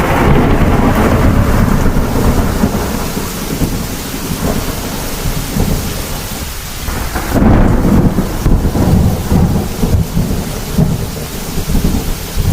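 Thunderstorm: heavy rain falling steadily with rolling thunder. A rumble at the start dies away over the first five or six seconds, then a new peal breaks about seven and a half seconds in and rumbles on.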